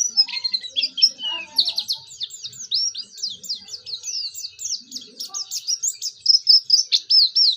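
White-eye (pleci) singing a fast, continuous twittering song of short, quick-sweeping high notes, several a second. It is a young bird that is just starting to sing.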